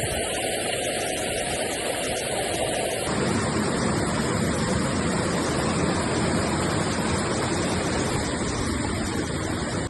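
Rushing floodwater: a loud, steady noise of fast-flowing water, whose character changes abruptly about three seconds in.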